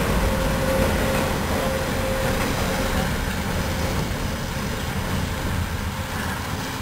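VIA Rail passenger train passing on an elevated steel bridge: a steady rumble of wheels on track, with a thin steady whine over it for the first three seconds or so. The sound eases off slowly as the locomotive at the end of the train goes by.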